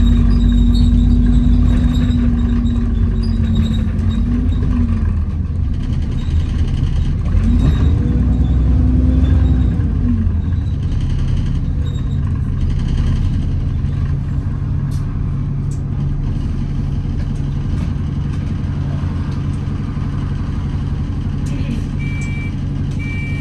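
Interior of an Alexander Dennis Enviro400 double-decker bus on the move, with a steady rumble and the drivetrain whine known to enthusiasts as the "hoover" noise. The whine drops away about four seconds in, comes back a few seconds later and fades again around ten seconds in. Near the end a short high beep starts repeating.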